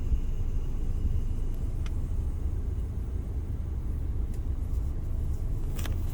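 Steady low rumble of outdoor background noise, with a couple of faint clicks near the end.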